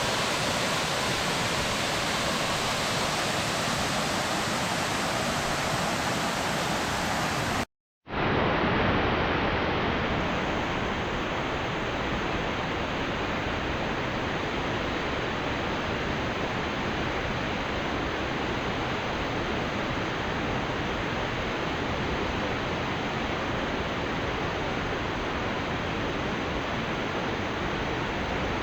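Waterfall rushing: a steady, even noise. About eight seconds in it drops out for a split second at a cut, then carries on with less treble.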